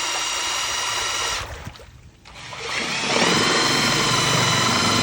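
3D-printed electric outboard motor running with a steady high whine. About a second and a half in it winds down and nearly stops, then about a second later spins back up with a brief rising whine and runs louder than before.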